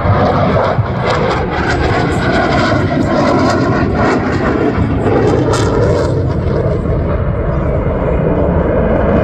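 Loud jet noise from a Eurofighter Typhoon's twin Eurojet EJ200 turbofans as the fighter flies its display, with a crackling rasp through the middle of the stretch.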